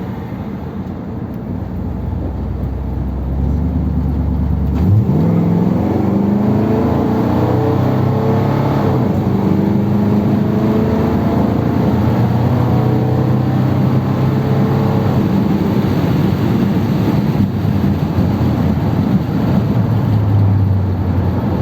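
1957 Ford Thunderbird's V8 accelerating under load, its carburettor running on the two primary barrels only with the secondaries blanked off. The engine note climbs in pitch and gets louder about five seconds in, then settles to a steady pull.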